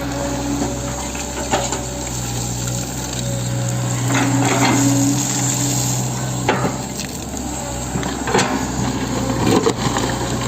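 Hitachi 110M excavator's diesel engine running steadily under load, with sharp metallic clanks and knocks every couple of seconds as the machine works.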